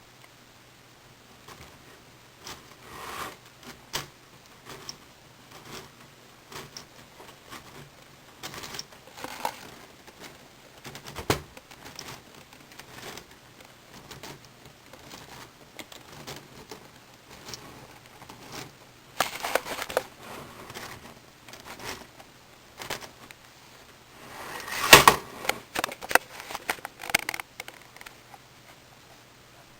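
Plastic K'nex pieces being handled and clicked together: scattered clicks and rattles, busier and louder in two spells in the second half.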